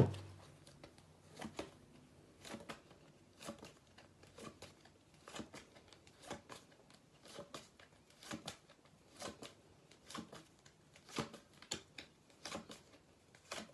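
A pack of paper sound cards being turned over one card at a time, a short faint flick about once a second.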